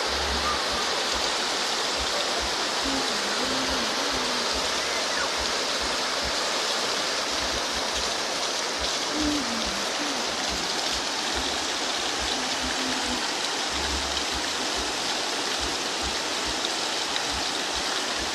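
Waterfall, its water pouring down in a steady, even rush.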